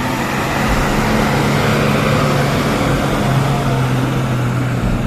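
A heavy vehicle's engine running steadily with a low, even hum.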